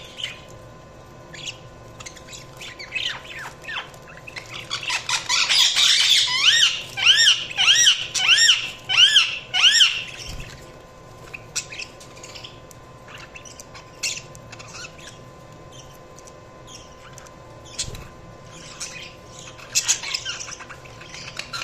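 Budgerigars chirping in scattered short calls. The chatter grows busy and loudest in the middle, where the same rising-and-falling chirp repeats about seven times, roughly two a second, before it thins out again and picks up near the end.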